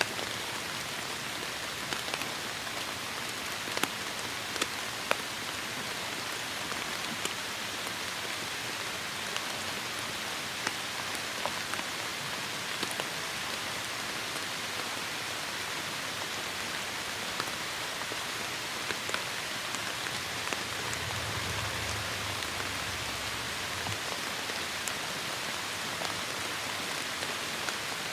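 Heavy rain falling steadily: a dense, even hiss with scattered sharper drop impacts. A low rumble joins for about three seconds near the end.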